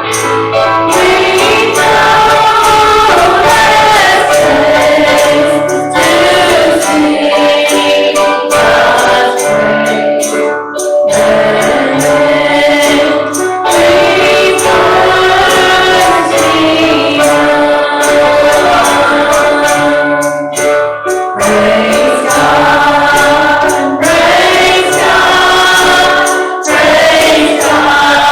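Gospel singing by a church choir and congregation, with a tambourine keeping a steady beat. There are short breaks between phrases.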